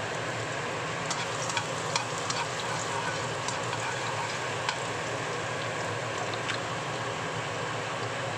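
Minced garlic sizzling steadily in hot oil in a nonstick wok. A spatula stirs it, with sharp clicks and pops scattered between about one and seven seconds in.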